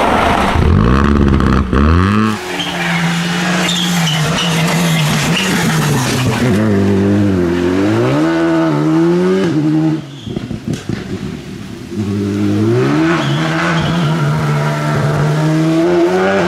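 Rally car engine at full attack, the revs climbing and dropping again and again through gear changes. About ten seconds in, the throttle comes off for a couple of seconds of sharp crackling pops before the engine builds revs again.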